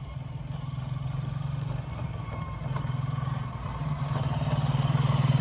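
A motor vehicle's engine running steadily at low revs, growing gradually louder toward the end.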